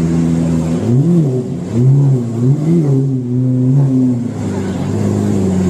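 Lamborghini engine idling, then revved in three quick throttle blips about a second in, before settling back to a steady idle.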